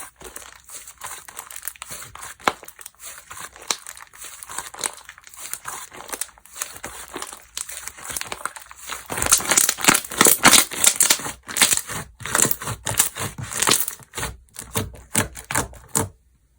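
Slime being squished, stretched and poked by hand, giving dense crinkling, crackling clicks and pops; it gets louder and busier about halfway through, then stops suddenly near the end.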